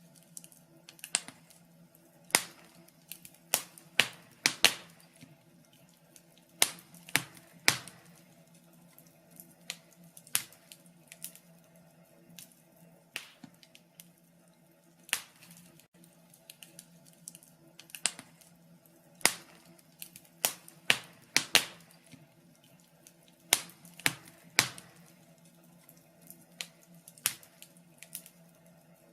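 Wood fire crackling: irregular sharp pops and snaps, roughly one or two a second and sometimes in quick clusters, over a faint steady low hum.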